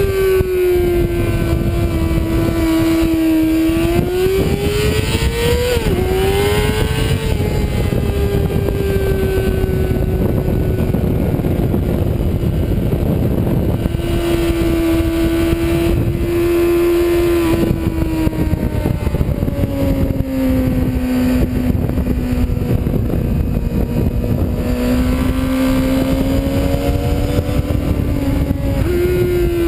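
Sport motorcycle engine at speed on a racetrack, its pitch climbing under throttle and dropping at gear changes and for corners, over heavy wind rush on an onboard camera microphone. The pitch rises to a peak about six seconds in, sags around eighteen seconds, then holds lower before climbing again near the end.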